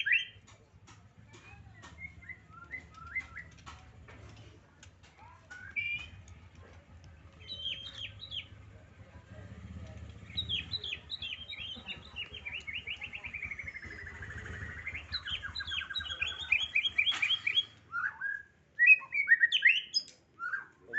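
Songbird singing: scattered chirps and short phrases, then a long, fast run of repeated notes from about ten seconds in that sweeps down and back up. Louder, sharper calls follow near the end.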